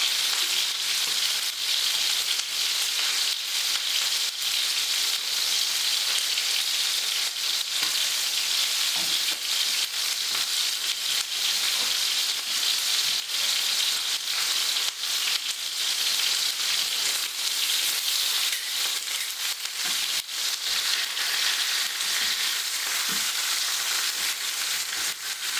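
Tomato puree frying in a hot pan: a steady sizzle full of small crackles and spits.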